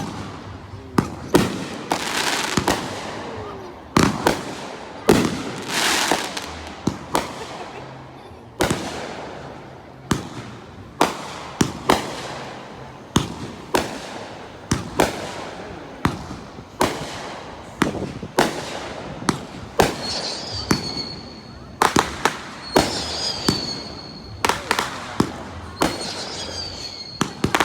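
Aerial fireworks bursting in quick succession, a sharp bang every second or so with crackling between. From about two-thirds of the way in, high wavering whistles join the bangs.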